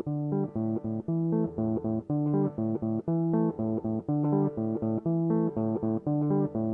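Music: an intro of plucked guitar notes over bass, played in a steady rhythm.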